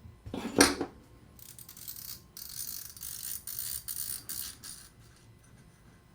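Metal parts of a star drag fishing reel being handled during disassembly: one sharp knock, then a few seconds of light clinking and rattling in short runs.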